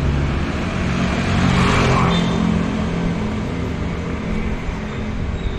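Street traffic: a motor vehicle's engine passing, its noise swelling about two seconds in and then easing off.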